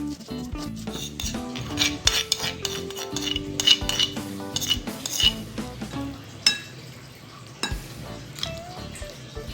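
A utensil stirring and clinking against cookware, with sharp knocks at irregular intervals. Background music plays underneath.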